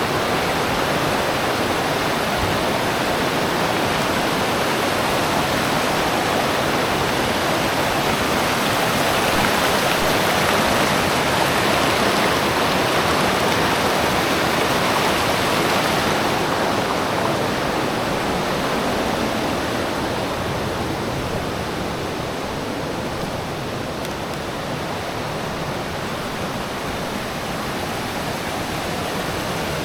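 River water flowing, a steady unbroken rush that eases slightly in the second half.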